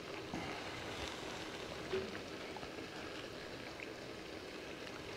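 Seafood and noodle stir-fry sizzling steadily in the pan, with a couple of light knocks, about half a second and two seconds in.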